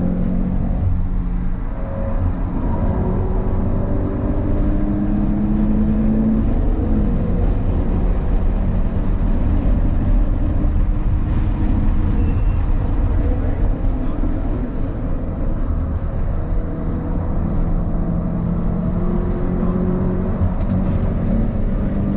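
Subaru BRZ's flat-four boxer engine pulling hard at track speed. Its note climbs and falls several times as the car accelerates, shifts and lifts, over a steady rumble of road and wind noise.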